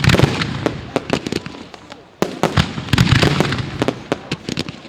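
Fireworks display: rapid bangs of shells and salutes with crackling between them, in two volleys, the second starting a little after two seconds in after a brief lull.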